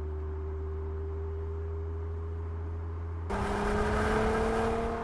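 Mercedes-AMG GLC 43 Coupé's 3.0-litre biturbo V6 running at a steady low drone whose note creeps slowly upward. A little past three seconds in it cuts suddenly to a louder engine note, still slowly rising, mixed with tyre and wind noise as the car accelerates on the road.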